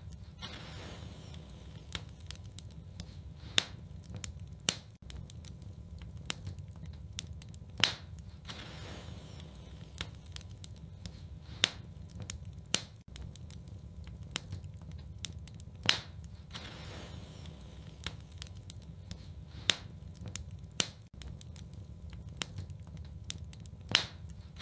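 Wood fire in a fireplace crackling, with sharp pops every few seconds over a low, steady rumble.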